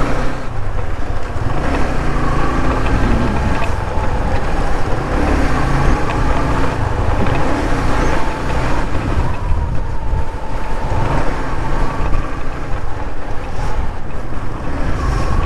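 Motorcycle running steadily along a road, with wind buffeting the microphone and a faint wavering engine whine.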